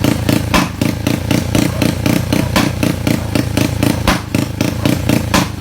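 Yamaha Mio scooter's single-cylinder engine, bored up to 200cc, running at a steady lumpy idle with an even beat of about five or six pulses a second and an occasional sharper crack.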